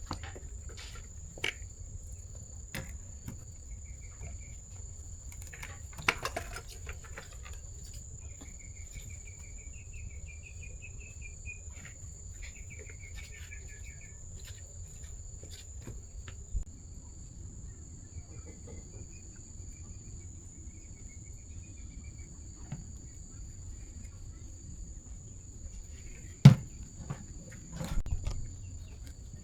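Insects trilling steadily at a high pitch, with scattered light clicks and knocks of rice-cooker parts being handled and one sharp knock near the end.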